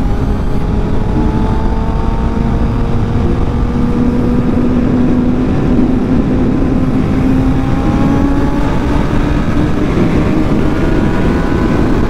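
Suzuki GSX-R (Gixxer) sportbike engine running under load at speed, its pitch climbing slowly as it pulls, under heavy wind rush.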